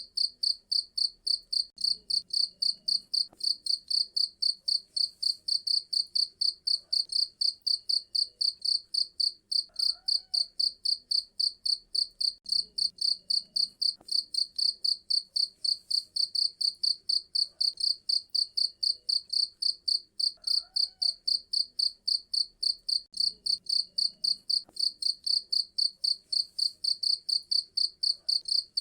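A cricket chirping steadily in a fast, even train of short, high-pitched chirps, several a second.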